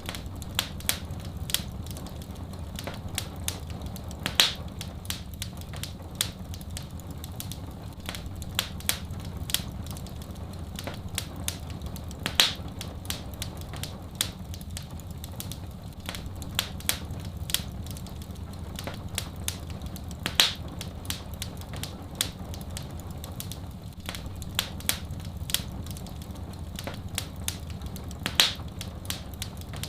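Wood fire crackling: many small, irregular pops, with a louder pop about every eight seconds, over a low steady rumble.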